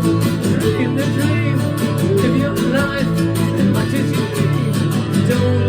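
Ukulele strummed steadily in an instrumental passage between sung lines of a song.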